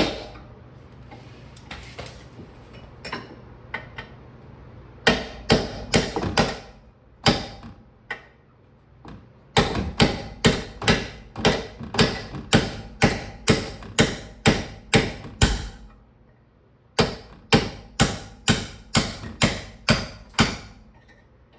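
Hammer striking a steel punch in runs of sharp metallic blows, about two a second, driving a part out of the wheel-bearing hub assembly. A short pause separates each run.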